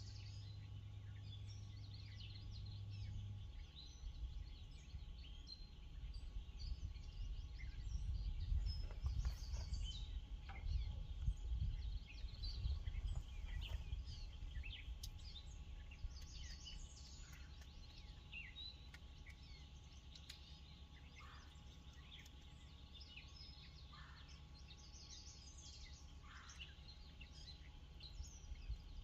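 Several birds chirping and calling in quick short notes on all sides, over a low rumble that swells for several seconds partway through.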